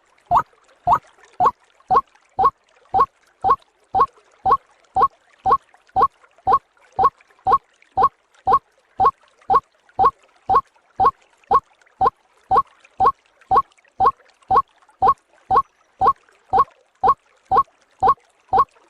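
White-breasted waterhen (ruak-ruak) call played as a bird-trapping lure: one short hoarse note repeated at an even pace, about twice a second, without a break.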